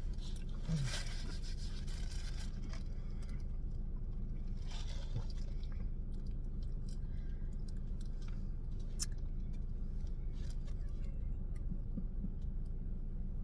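Close-up eating sounds: chewing and crunching, with scattered small clicks and rustles, over a steady low hum.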